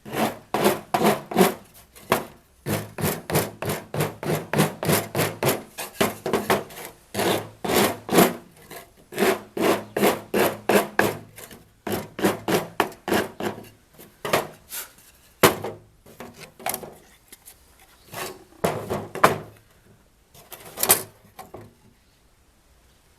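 Wood being worked by hand with a tool in quick back-and-forth strokes, about three a second. Later the strokes slow and come in scattered groups, then stop near the end.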